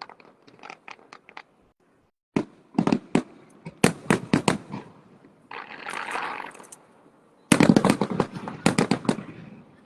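Aerial fireworks bursting in rapid runs of sharp bangs. A stretch of crackling comes about halfway through, then a dense volley of bangs near the end.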